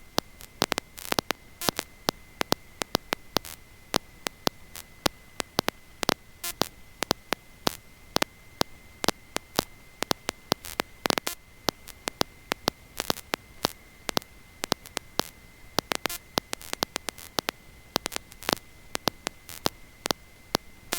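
Electrical static in the audio feed: irregular crackling clicks, several a second, over a low hiss, with a faint steady high-pitched whine underneath.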